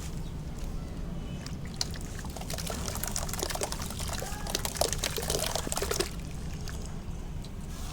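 Soft sand-cement dipped in water, crackling and bubbling as the water soaks in and the cement crumbles, for about three and a half seconds in the middle before stopping abruptly, over a low steady hum.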